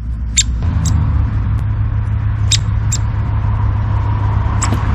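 Steady low rumble with five short, sharp high-pitched chirps scattered through it.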